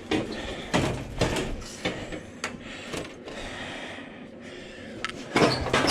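Metal parts of a scrapped AC condenser unit knocking and scraping as a part is worked at and pulled on, with a string of separate clanks and clicks and a louder stretch near the end.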